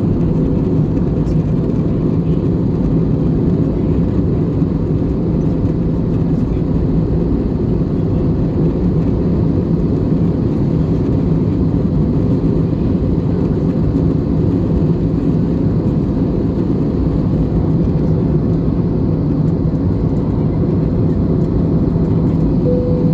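Airbus A320neo passenger cabin in cruise: a steady, even roar of engine and airflow noise, heaviest in the low range, with a faint steady hum underneath.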